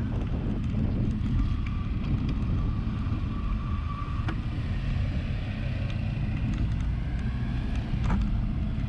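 Wind buffeting the microphone of a camera riding along on a bicycle, a steady low rumble mixed with road noise, with a few sharp clicks and a faint whine in the middle.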